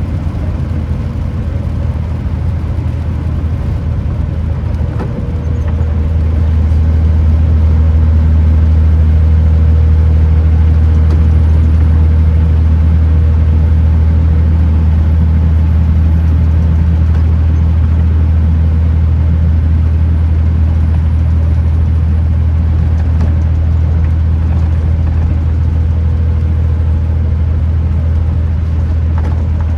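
Kenworth T909 truck's diesel engine droning steadily while under way, with road noise. It grows louder about six seconds in, then holds level.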